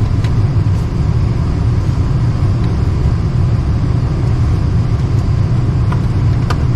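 Lennox package HVAC unit's blower running as a steady low rumble, with a few faint clicks.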